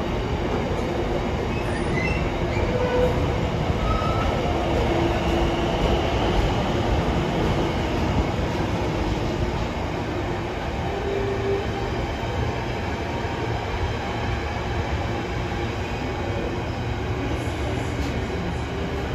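Container freight train's loaded flat wagons rolling past on the track: a steady rumble and clatter of wheels, with a few short wheel squeals in the first several seconds.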